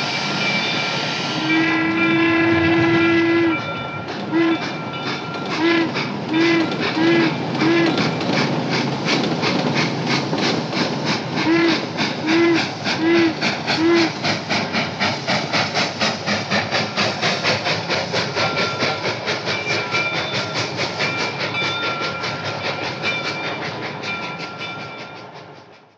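Hallmark Lionel toy train's sound effects: a long steam-whistle blast, then short toots in two groups of four, over a rapid, even rhythmic chugging that fades out at the end.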